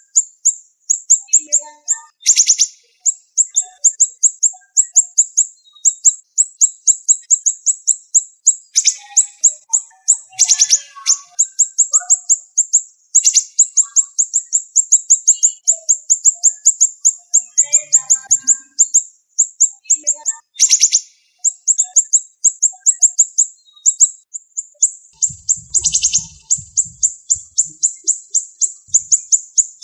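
Siri-siri songbird calling in fast, tightly packed runs of sharp, high-pitched notes that go on almost without a break, with a few louder, fuller bursts mixed in.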